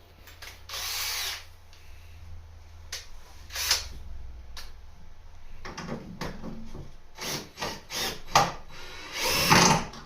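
Power drill run in three short bursts, with sharp clicks and knocks from handling between them.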